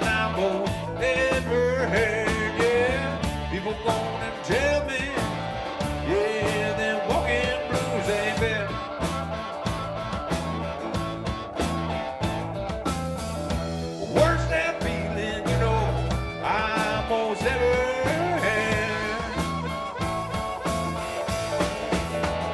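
Live blues-rock band playing an instrumental break: a lead guitar bends and slides its notes over a steady bass line and a driving drum beat.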